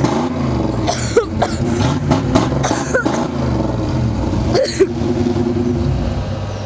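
1992 Chevrolet Caprice Classic V8 revving hard during a burnout, its pitch rising and falling again and again, with a few short sharp sounds over the top.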